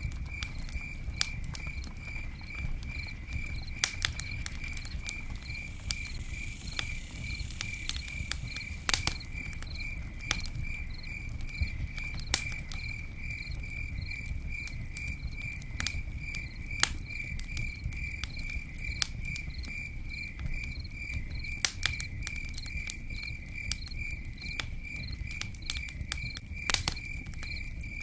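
Campfire crackling, with irregular sharp pops over a low rumble of burning wood. Under it runs a steady, high, pulsing chirp of crickets.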